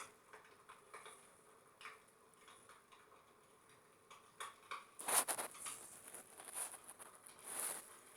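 Wood fire crackling in a fireplace: faint, irregular pops and snaps, with denser bunches of crackling about five seconds in and again near the end.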